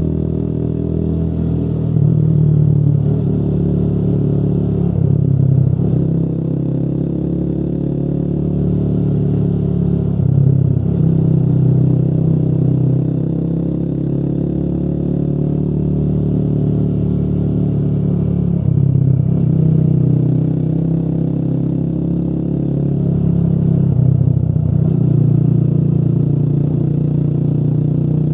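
Motorcycle engine running under way, its note rising and dropping several times as the bike changes speed.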